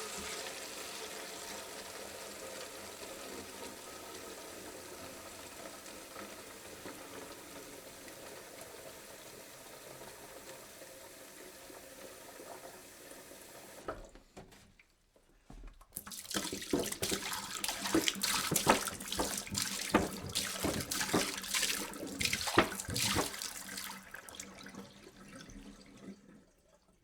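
Water poured into a jug: a steady stream for about fourteen seconds, then a brief pause. After that comes a louder, splashier pour that fades out near the end.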